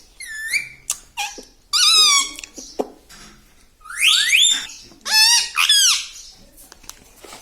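Pet parrot calling: about four loud, high-pitched squawks, each sweeping sharply up or down in pitch, with a few small clicks between them.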